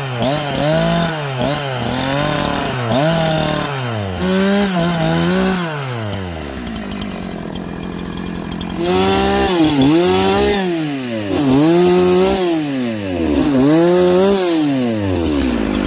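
Two-stroke chainsaw cutting through a large log. The engine pitch repeatedly sags under load and climbs back, about once a second, and the saw runs steadier and a little quieter for a few seconds midway.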